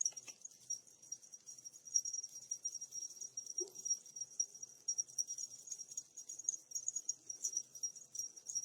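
A steady, high-pitched trill, pulsing rapidly, with one brief low sound about three and a half seconds in.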